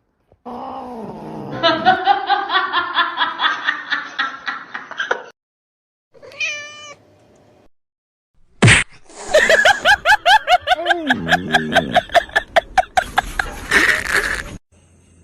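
Cat yowling and meowing in three separate bursts broken by short silences. The longer bursts are fast and pulsing, about five or six pulses a second, and a single sharp knock comes near the start of the last burst.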